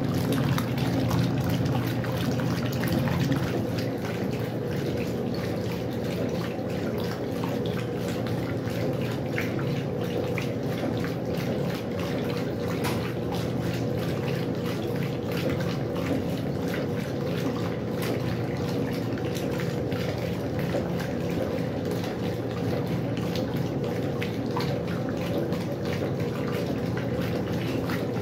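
Westinghouse washing machine running with water splashing inside, over a steady machine hum.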